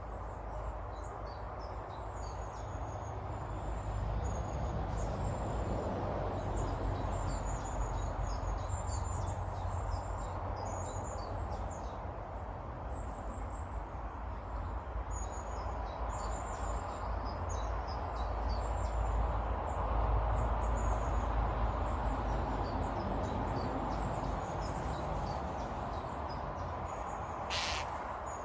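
Small garden birds chirping and twittering in high, short notes over a steady low rumble. The calls are thickest in the first half, and there are a couple of sharp clicks near the end.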